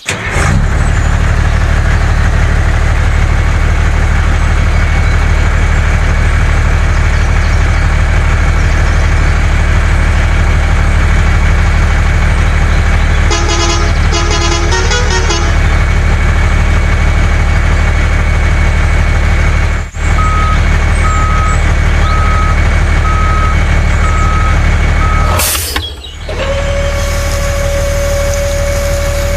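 A vehicle engine running steadily and loudly. Electronic beeps come in a short burst about halfway through, then a regular beep repeats for about five seconds, and a steady horn-like tone comes in near the end.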